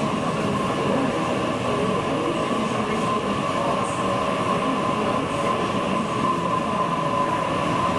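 Passenger train moving through the station platform, a steady rail rumble with a continuous high whine over it.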